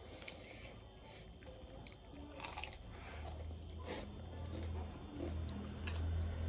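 Close-miked chewing and crunching of food, with scattered wet clicks of the mouth, over a low steady hum that comes up about halfway through.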